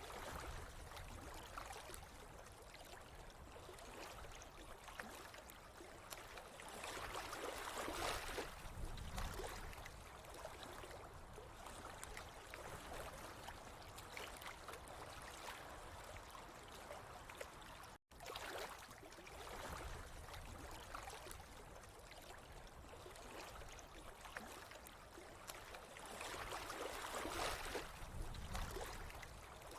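Water running and trickling steadily, swelling louder twice, about eight seconds in and near the end, with a momentary drop to silence about eighteen seconds in.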